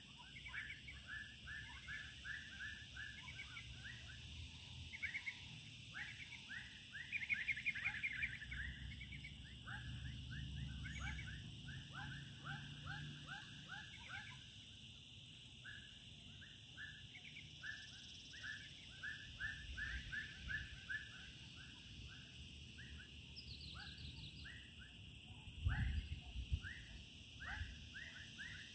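Birds calling in quick series of short, falling chirps, over a steady high-pitched drone. There is a brief low thump near the end.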